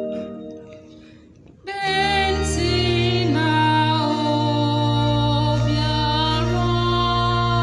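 A sustained keyboard chord dies away. About two seconds in, a woman's solo voice enters over held keyboard chords with a deep bass line.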